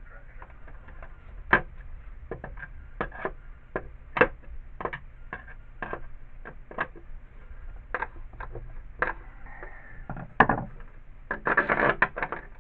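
Irregular sharp clicks and knocks of small hardware being handled: a longer bolt and nut being fitted through the shovel repair, with a short burst of clatter near the end.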